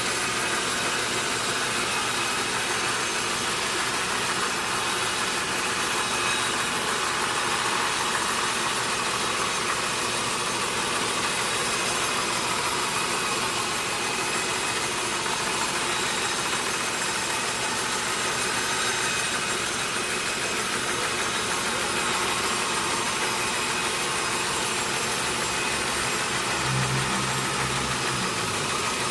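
Sawmill machinery running steadily, a continuous mechanical noise. Near the end a low hum comes in briefly and drops in pitch.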